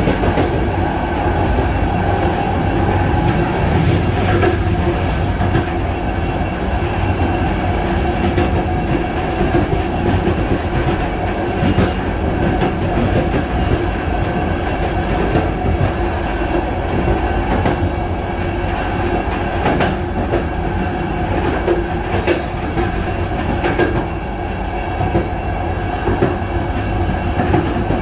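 Passenger train running along the track: a steady rail rumble, with a sharp click now and then as the wheels pass over rail joints.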